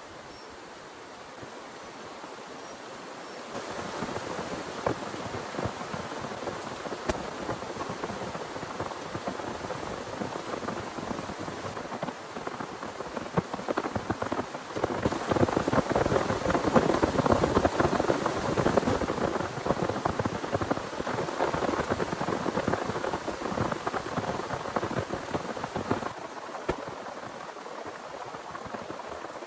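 Heavy rain falling, a dense patter of drops striking a surface. It gets louder about four seconds in, is heaviest around the middle, and eases somewhat toward the end.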